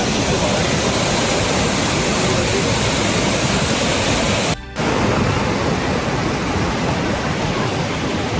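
Waterfall in heavy flow, a steady rush of falling water, cut off for a moment about halfway through.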